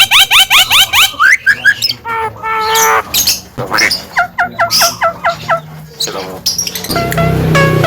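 Javan myna calling: a quick run of rising chirps, then harsh squawks and whistled notes, and a fast series of short repeated notes. Background music comes in near the end.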